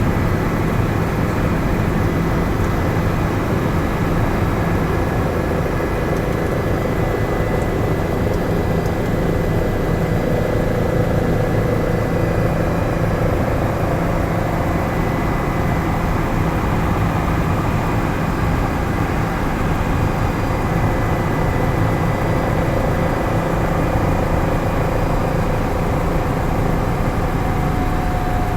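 Helicopter engine and rotor noise: a loud, steady drone with a faint high whine running through it.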